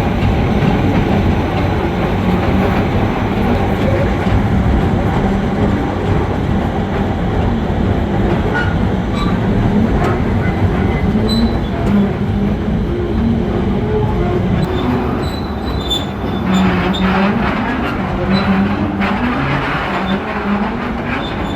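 Train running along the track with a steady rumble and hum. Clicks and faint high squeals from the wheels come in over the last several seconds.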